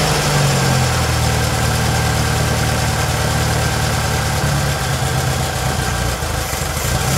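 Engine of a 1968 Volkswagen Beetle, an air-cooled flat-four, idling steadily, settling to a slightly lower idle about a second in. It is the revived engine running well.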